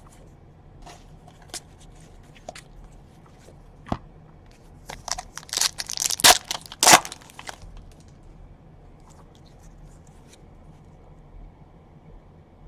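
Trading card pack wrapper crinkling and tearing, with cards being handled: scattered small clicks, then a burst of loud crackling about five seconds in that lasts two or three seconds.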